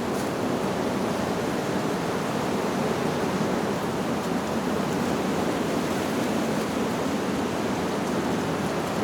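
Wind rushing steadily through tree leaves, an even hiss with no chime notes standing out.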